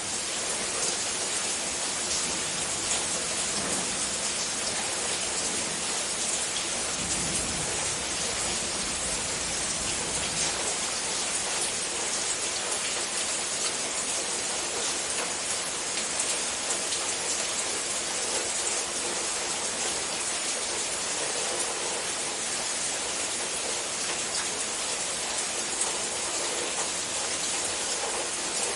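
Steady, even rain pattering down on a surface, dense and unbroken. A low rumble of distant thunder rolls underneath about a quarter of the way in.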